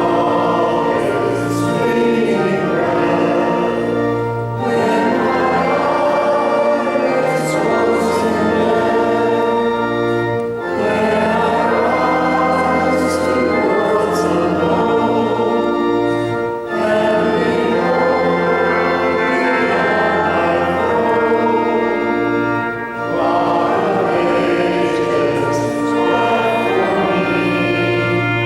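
A group of voices singing a hymn with organ accompaniment, in long held phrases with brief breaks between lines.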